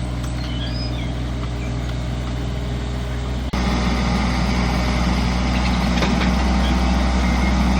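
Engine of earth-moving machinery running steadily, suddenly louder about halfway through. Faint birds chirp over it.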